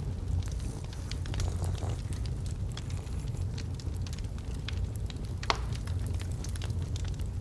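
Burning logs in a fireplace crackling, with scattered small snaps and one louder pop about five and a half seconds in, over a steady low rumble.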